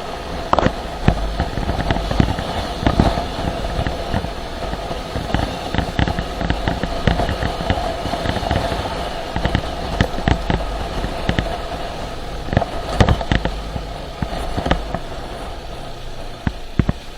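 Motorcycle running on the move: a steady low rumble and hum, broken throughout by many short sharp crackles and pops.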